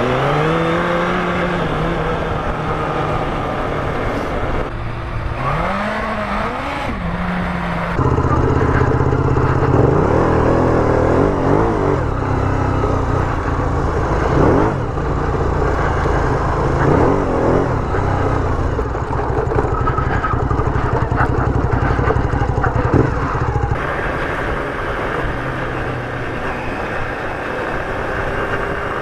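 Sport motorcycle engine running under way, its pitch rising and falling as it revs through the gears. The sound changes abruptly about eight seconds in and again about five seconds before the end.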